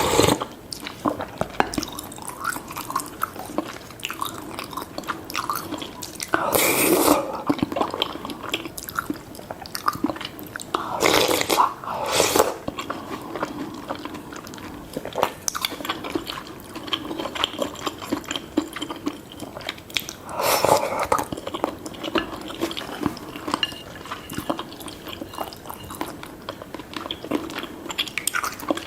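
Close-up eating sounds of spicy seafood noodle soup: wet chewing and smacking, with three louder, longer slurps spread through.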